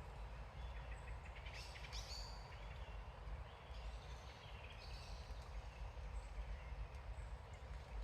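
Woodland birds singing, two short spells of song, about a second and a half in and again around four seconds in, over a steady low rumble.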